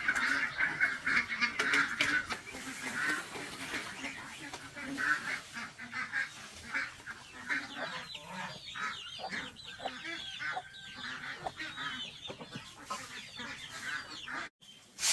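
Farmyard waterfowl calling: a run of repeated nasal honking calls in the first few seconds, then many short, high peeping calls.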